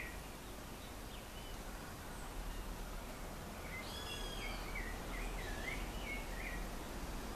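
Outdoor ambience of steady hiss and low rumble, with a bird calling a quick run of short wavering notes from about four seconds in to past six seconds.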